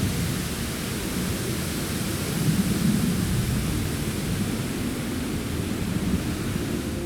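Strong gusty wind blowing through forest trees: a steady hiss of rustling foliage over a low rumble of gusts buffeting the microphone, swelling about two and a half seconds in.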